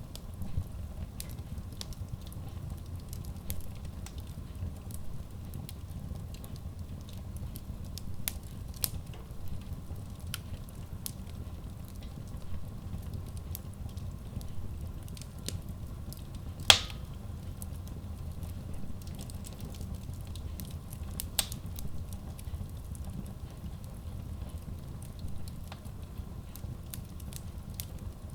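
Wood logs burning in a Kratki Koza K6 stove-fireplace: a low steady rumble of flames with scattered crackles and pops. The sharpest pop comes about 17 seconds in and another about 21 seconds in.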